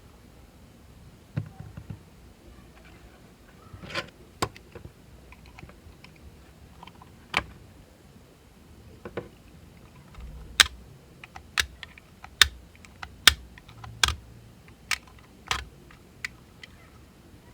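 Sharp, separate clicks and taps of small hard objects being handled. They come scattered at first, then about one a second in the second half.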